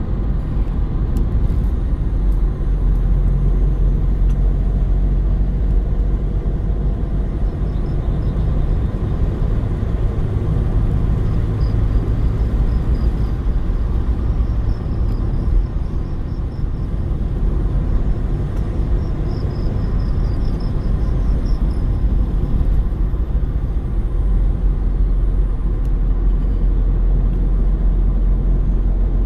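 Car driving along at a steady pace: a continuous low rumble of engine and road noise.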